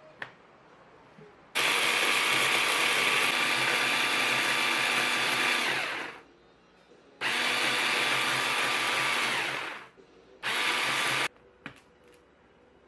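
A small electric kitchen appliance's motor run three times: a long run of about four seconds, a shorter one of under three seconds, and a brief pulse, each winding down as it is switched off.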